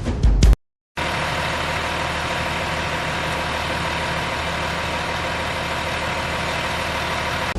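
Vehicle engine idling steadily, cutting in abruptly about a second in after a short silence.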